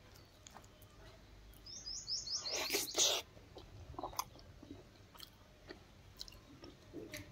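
A bird gives a quick run of about six high, falling chirps about two seconds in, followed at once by a loud, short crackling noise, then scattered soft clicks.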